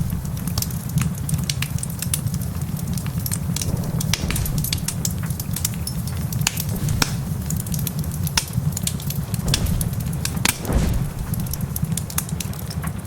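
Wood fire crackling in a fireplace, with frequent sharp pops and snaps over a steady deep rumble.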